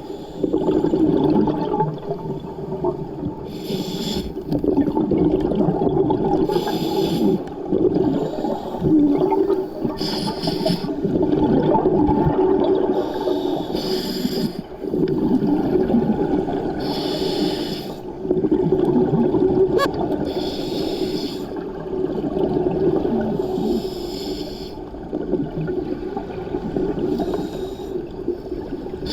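A scuba diver breathing through a regulator underwater: a short hissing inhalation every three to four seconds, with bubbly, gurgling exhalations in between.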